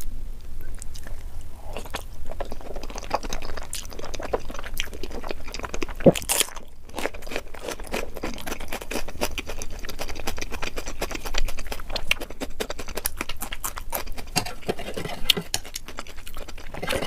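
Chewing of curry-coated chicken skin with the mouth full: a dense, continuous run of short clicks and mouth sounds.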